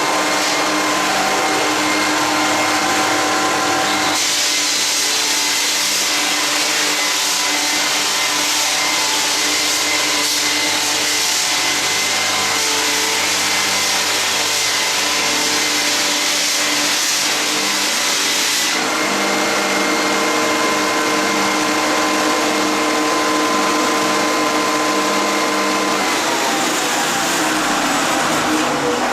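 Drum floor sander running: a steady motor hum with a louder sanding hiss from about 4 to 19 seconds in while the drum works the old hardwood. Near the end the motor's pitch falls as it winds down.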